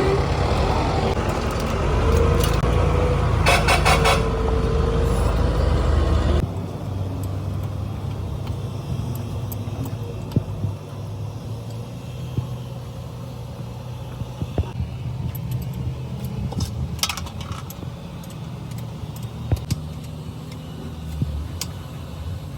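Heavy engine running with a loud, steady low rumble that cuts off suddenly about six seconds in. After that, a quieter steady low hum with scattered clicks and knocks.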